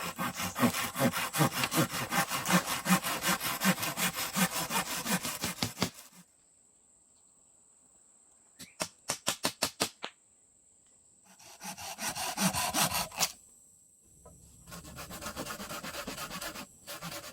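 Wood being sawn by hand in rapid back-and-forth strokes. It comes in four bouts: a long run of about six seconds, a short sharp burst near the middle, and two shorter runs near the end, with pauses between.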